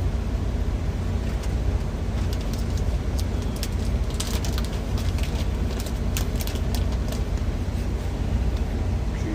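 Food frying in oil in a pan, with scattered sharp crackles and pops that come thickest in the middle of the stretch, over a steady low drone.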